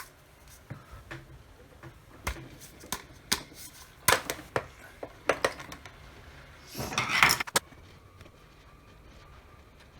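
Sharp clicks and taps of tools being handled on a workbench, with a short rush of noise and clicks about seven seconds in, the loudest moment. After that, a faint steady whir that fits a hot-air rework station running as the chip is heated for removal.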